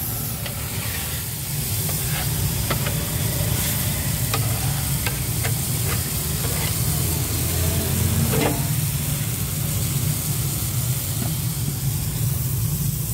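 Burger patties sizzling in oil on a flat metal griddle, with a spatula clicking and scraping on the metal about ten times. A steady low hum runs underneath.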